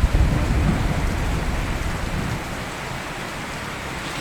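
Steady rain, with a low rumble of thunder that starts at once and fades over the next two seconds or so.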